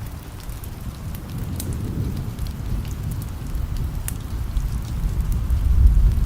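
Distant thunder rumbling low and swelling over the last few seconds, over steady rain. Scattered sharp crackles from a wood fire come through on top.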